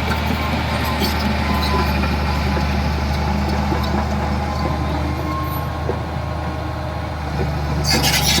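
Heavy diesel engine of earthmoving machinery running steadily with a low drone. Near the end a louder, harsher noise with higher sounds in it comes in.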